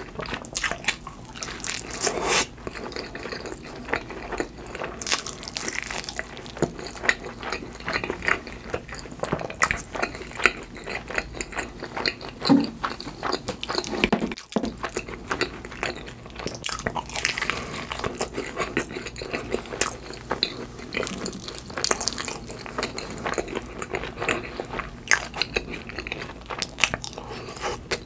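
Close-miked biting and chewing of a crisp-crusted cheese pizza slice heaped with mashed avocado: irregular crunches and mouth clicks throughout.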